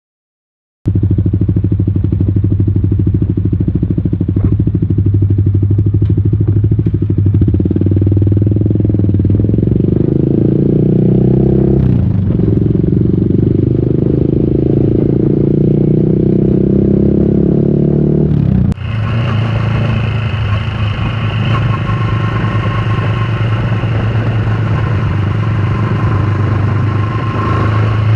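Yamaha XSR155's single-cylinder engine running through a full aftermarket exhaust, a steady low exhaust note. About two-thirds of the way through it cuts abruptly to a brighter, higher-pitched engine sound.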